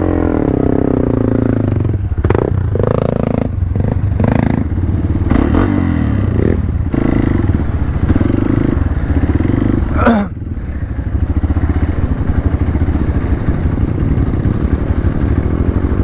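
Hero Xpulse 200's single-cylinder engine running with revs rising and falling as the bike works through slippery ground, with some clatter and scraping. A short sharp noise comes about ten seconds in, after which the engine runs lower and steadier.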